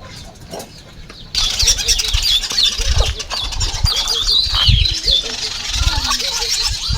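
Rural outdoor ambience starting abruptly about a second in: small birds chirping rapidly and repeatedly, with scattered low thumps.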